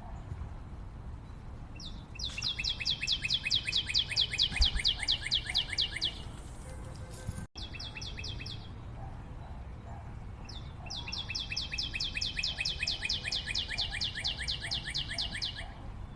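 A bird calling long runs of rapid, evenly repeated high notes, about seven a second, each run lasting about four seconds. Two such runs are heard, with a short burst of the same notes between them.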